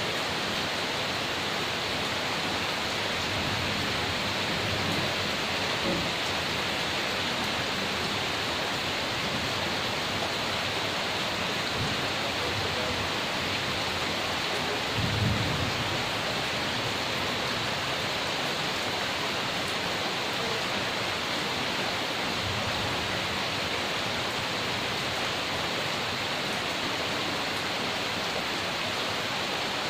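Heavy rain falling steadily, with a brief low rumble of thunder about halfway through.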